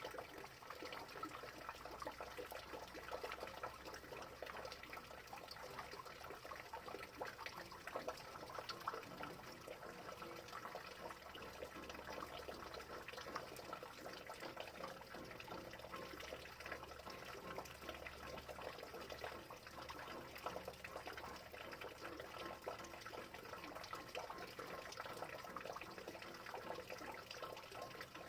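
Steady rain falling: a dense, even spread of many small drop hits.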